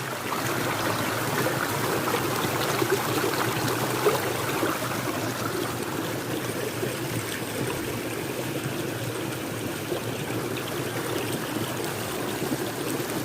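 Small stream running full after heavy rain, water flowing over a little hand-dug waterfall with a steady rushing sound.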